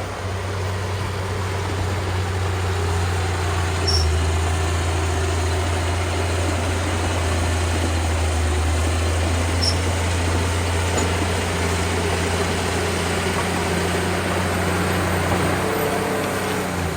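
Komatsu D31P small bulldozer's diesel engine running steadily with a low drone, a little louder from about four seconds in.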